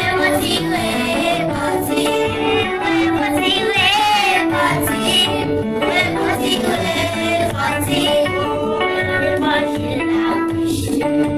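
Church worship music: singing, with a woman's voice prominent, over instrumental accompaniment.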